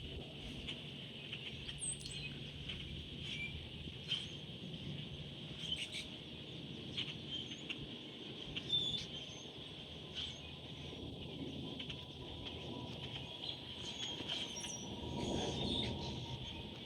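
Songbirds chirping, with short calls scattered throughout over a steady low rumble.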